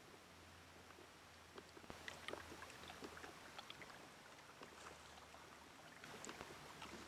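Faint water sounds of a kayak moving on calm water: scattered small splashes and ticks over a low steady hum.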